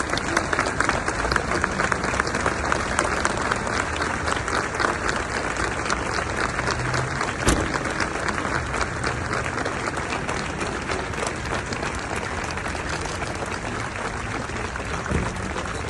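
A crowd applauding in a long, steady round of clapping, with one sharper knock about halfway through.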